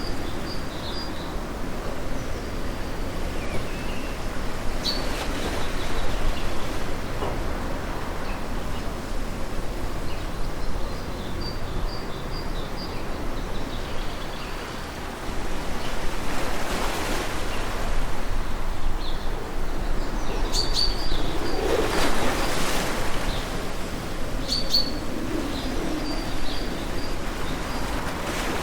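Ocean surf washing steadily, with waves swelling louder twice, about halfway through and again some seconds later. Small birds chirp with short, high calls throughout.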